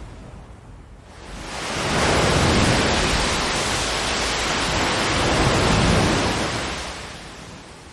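Ocean waves washing onto a shore: one wave's rush swells up about a second and a half in, holds for several seconds, then fades away near the end.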